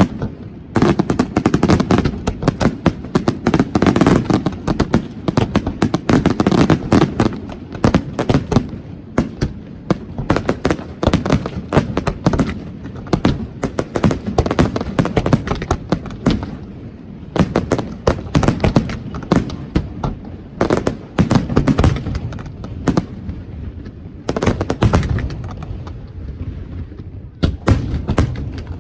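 Fireworks display: rapid, dense crackling volleys of bangs with deeper booms beneath, thinning out after about the middle into scattered clusters of reports.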